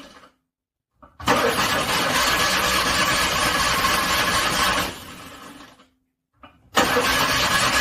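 Car engine cranking in the cold in two separate attempts. Each starts with a short click and is followed by a long stretch of starter cranking. The first attempt fades out after about four seconds; the second begins near the end after a pause of dead silence.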